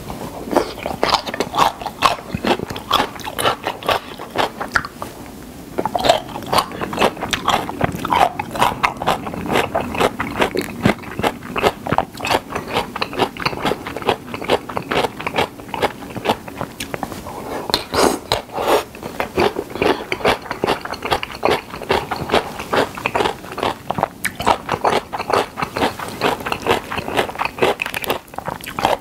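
Close-miked chewing of mouthfuls of spicy whelk and somen noodle salad with sliced vegetables: rapid, wet, clicky bites and chews, with a short pause about five seconds in.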